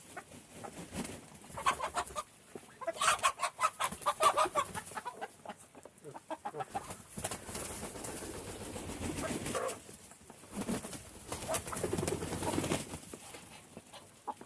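Chickens clucking in quick, repeated calls, loudest about two to four seconds in and again near the end.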